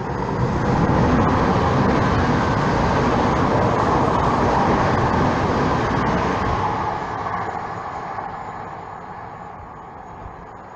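Regional passenger train passing, a steady rumble of wheels on rails that builds in the first second, stays loud for several seconds, then fades gradually as the train draws away.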